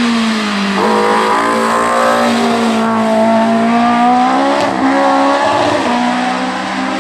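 Race car engine running hard at high revs, its note holding a fairly even pitch with small steps up and down in pitch about four and a half seconds and six seconds in.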